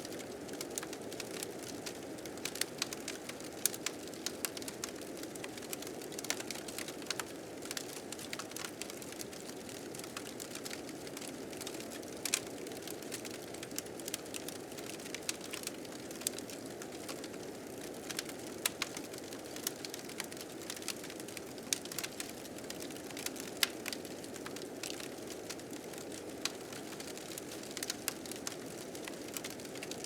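A fire crackling, with frequent irregular sharp pops, over a steady low rushing of blizzard wind.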